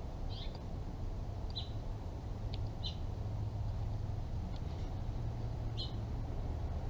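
Short, high bird chirps, a handful spread across several seconds, over a steady low background rumble.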